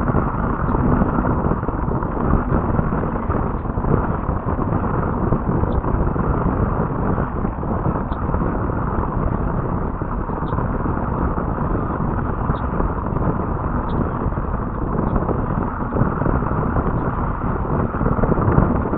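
Wind buffeting the nest webcam's microphone: a steady, loud rumbling noise with no tone in it.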